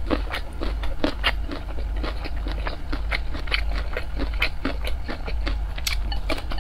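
Close-miked eating sounds of a person chewing rice and stir-fried broccoli: continuous wet chewing with many short sharp mouth clicks and smacks.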